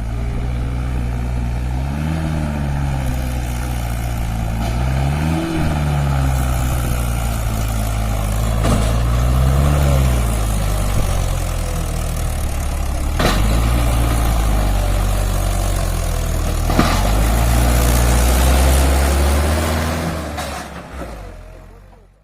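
Mahindra 575 DI tractor's diesel engine running steadily, revving up and dropping back three times, with two sharp clicks later on; the sound fades out at the end.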